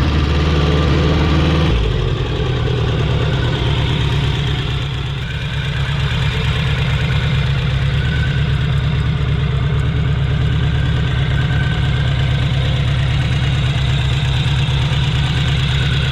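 Motorcycle engine running at a steady speed, its note changing abruptly about two seconds in.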